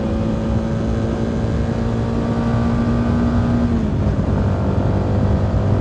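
CFMoto 300NK motorcycle's single-cylinder engine running steadily at cruise, heard from the rider's position with wind rush. The engine note drops a little about four seconds in.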